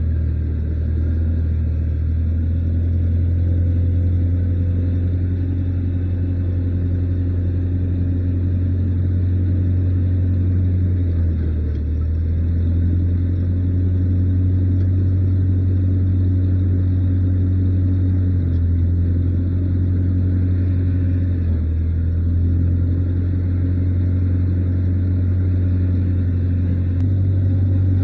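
Engine running steadily with a low, even hum, its note dipping or shifting briefly a few times.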